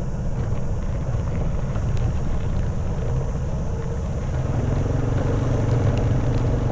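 Honda Wave 110cc motorbike's single-cylinder four-stroke engine running steadily while riding, with a low rumble; a clearer engine tone comes in about halfway through.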